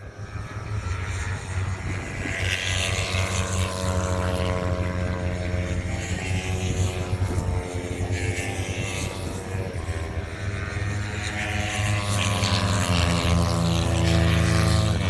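Racing motorcycle engines at high revs, growing louder over the first few seconds and then staying loud, their pitch sliding up and down as the bikes change speed.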